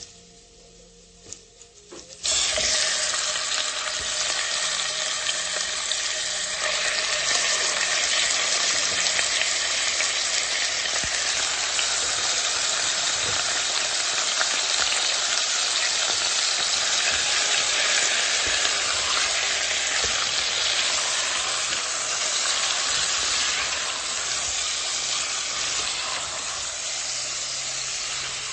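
Raw chicken pieces sizzling in hot oil with garlic in a pot, turned with a silicone spatula. After a quiet start with a few soft taps, the sizzle starts suddenly about two seconds in and stays loud and steady, easing a little near the end.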